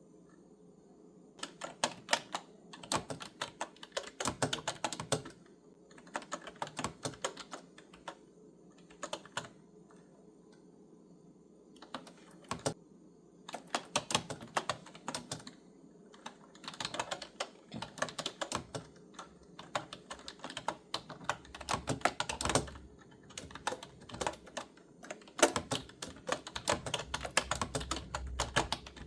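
Typing on a clicky computer keyboard: runs of rapid key clicks broken by pauses of a second or more, starting about a second and a half in.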